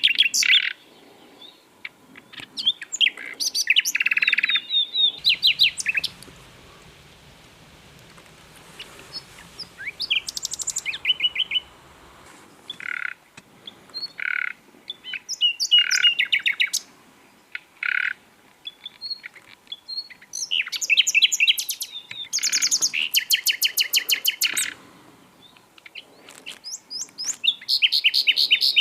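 Common nightingale singing: a string of varied phrases with short pauses between them, mixing fast runs of repeated notes and rattling trills with a few short clear whistles.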